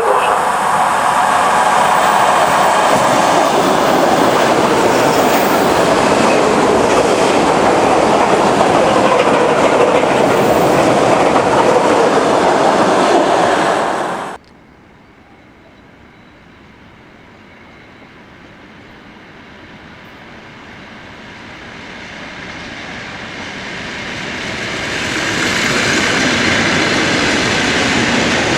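Electric commuter train running past with its wheels clattering over the rail joints; the sound cuts off abruptly about halfway through. A train is then heard faintly and grows steadily louder as it approaches, until it is as loud as the first.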